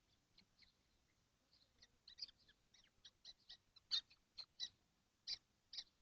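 Young kestrels in a nest box giving short, high calls, faint and scattered at first, then coming quickly one after another from about two seconds in.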